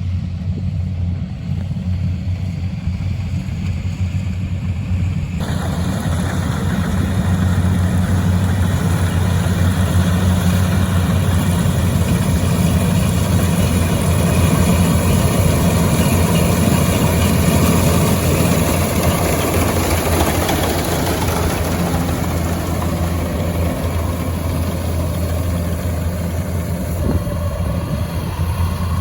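An engine running steadily with a low hum. About five seconds in, a rougher, higher-pitched noise suddenly joins it and carries on.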